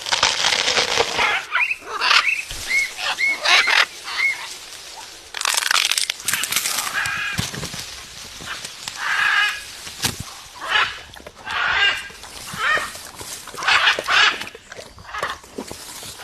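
A parrot squawking and chirping in short, repeated calls.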